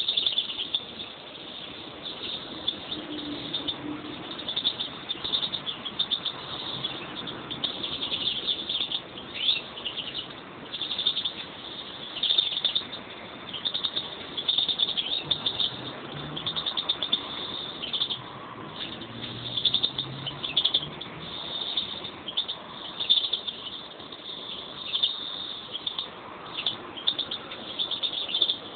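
Pet birds, a pair of European greenfinches, chirping and trilling in a continuous, busy chatter of high notes.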